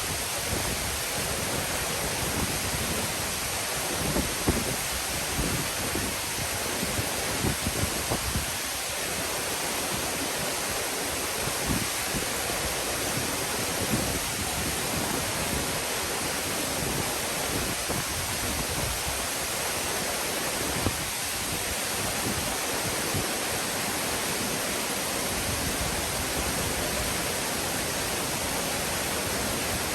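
Waterfall pouring, a steady even rush of water. Low bumps of wind on the microphone come and go through most of it, dying away in the last few seconds.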